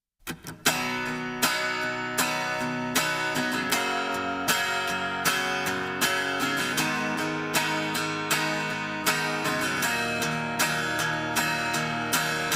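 Music: a guitar intro with a strum about every three quarters of a second.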